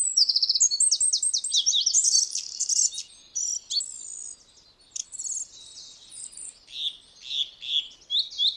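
Forest songbird chorus: several small birds chirping and trilling at once, dense for the first three seconds, then thinning to scattered calls and a series of short downward-sliding notes.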